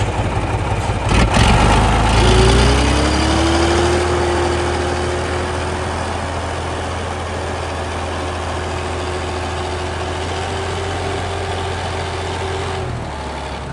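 Heavy truck engine running steadily. There is a sharp knock about a second in, and a whine rises about two seconds in, then holds level. The engine sound drops away near the end.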